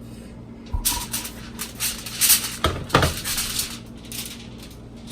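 Kitchen clatter of a foil-covered baking dish being handled, rustling and scraping, with two sharp knocks a little under three seconds in.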